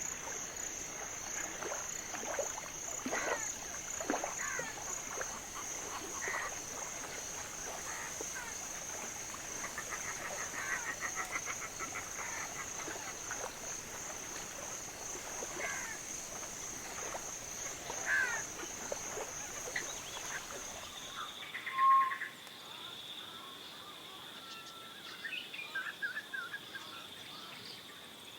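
Outdoor ambience of birds calling over a steady high insect drone. About two-thirds of the way through it changes to a different ambience, with a lower steady insect tone and short bird chirps.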